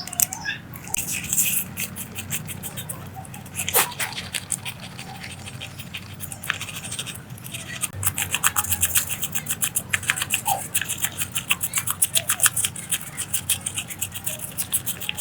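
Hand work on a part: rapid, repeated rubbing or scraping strokes, several a second, sparse at first and then a steady fast run from about six seconds in, with a single sharp knock a few seconds in.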